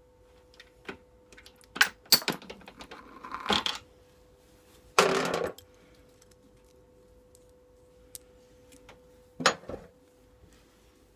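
Metal tools and parts clinking and clattering: a few sharp metallic clinks, a loud half-second clatter about five seconds in, and another clink near the end.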